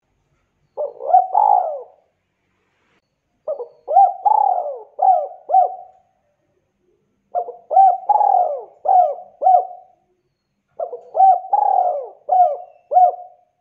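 Spotted dove (tekukur) cooing: four phrases of several short, gliding coo notes each, separated by pauses of a second or two.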